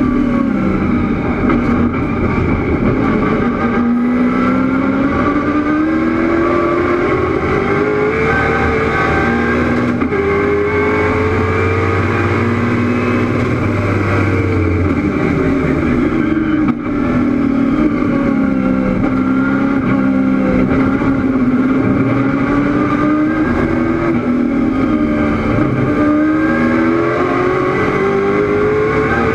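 Raw in-car sound of a 700-horsepower 1969 Chevrolet Camaro race car's engine at racing speed. The pitch climbs for several seconds under acceleration, then drops back as the driver lifts or shifts, over and over.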